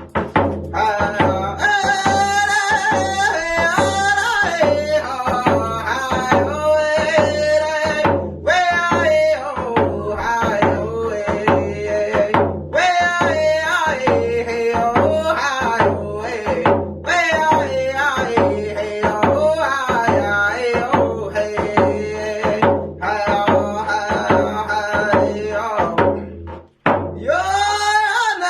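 A singer's voice over a steady drum beat, the song pausing briefly near the end before the voice comes back in.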